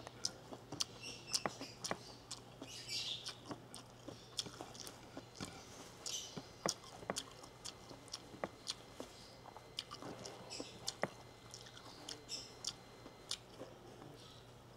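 Close-up eating sounds of a man eating rice and sautéed bamboo shoots by hand: chewing with many sharp, irregular wet clicks and short squishy smacks. A faint steady low hum sits underneath.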